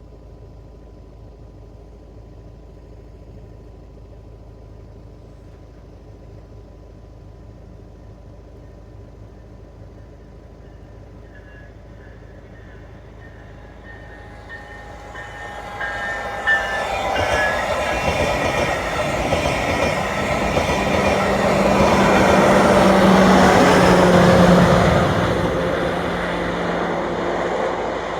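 VIA Rail Siemens Charger test train approaching and passing: faint at first, building from about fifteen seconds in, loudest a little past the middle, then easing off.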